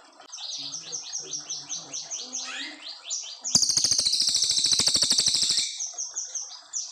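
Cililin coklat singing a long, clear run of quick, high, downward-slurred notes, about five a second. About halfway through, a louder rapid rattling trill takes over for about two seconds before the run of notes resumes.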